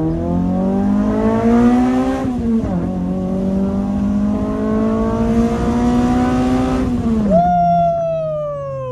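Toyota Celica GT-S four-cylinder engine accelerating hard at full throttle during a 0 to 60 run. The revs climb, dip briefly at an upshift about two and a half seconds in, then climb again. Near the end the driver lifts off: the engine drops to a low steady note while a whine falls in pitch as the car slows.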